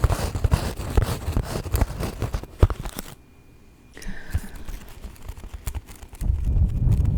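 Long fingernails scratching and rubbing rapidly on a microphone, a dense crackly rasp. It pauses briefly about three seconds in, comes back lighter, and near the end gives way to a steady low rushing rumble on the mic.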